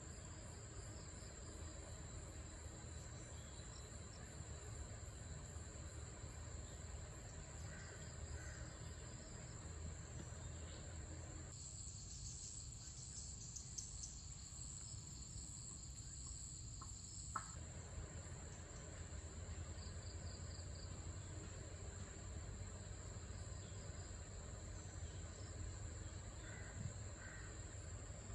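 Steady high-pitched chorus of insects, likely crickets, with a low hum underneath. About twelve seconds in, the insect sound swells and pulses for several seconds, then settles back.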